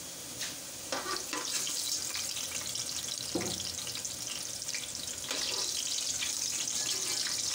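Potato chunks sizzling as they fry in hot oil in a metal pot, with a few knocks and scrapes of a wire skimmer against the pot as they are turned. The sizzle grows louder about five seconds in.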